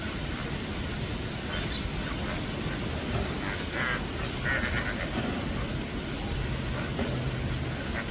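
Birds giving a few short, harsh chattering calls over a steady low rumble.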